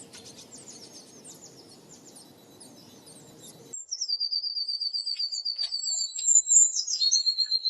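Blue tit singing. For the first few seconds there are faint high chirps; then, after an abrupt change, a loud, high trill of rapidly repeated notes runs to the end.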